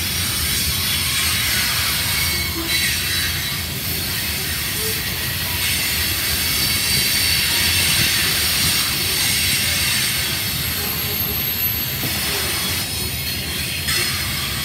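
Freight train of covered hopper cars rolling past close by. Steel wheels make a steady rumble on the rails, with a high hiss and a faint thin squeal over it.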